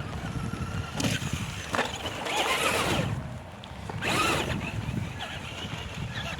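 Traxxas Slash 2WD electric RC truck driven in short bursts of throttle, its motor whining up in pitch as the tyres spin on wet grass, three or four times, over a steady wind rumble on the microphone.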